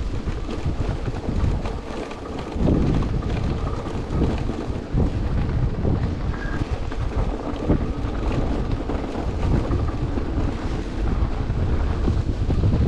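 Wind buffeting the microphone in a snowstorm, a gusting low rumble that rises and falls.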